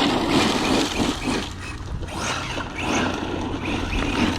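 Arrma Mojave electric RC truck driving on 6S power: its brushless motor and tires work over grass and mud in a steady, noisy run.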